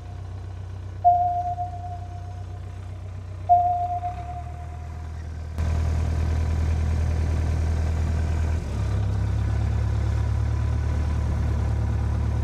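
D4 bulldozer's diesel engine running steadily, then revving up louder about five and a half seconds in and holding there under load as it pulls. A short mid-pitched tone sounds twice over the engine in the first few seconds, each starting sharply and fading.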